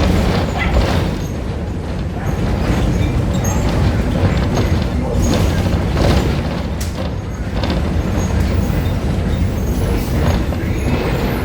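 Inside a Marcopolo Torino city bus on a Volkswagen 17-230 OD chassis while it is driving: the diesel engine running under a steady low rumble, with body rattles and knocks from the road.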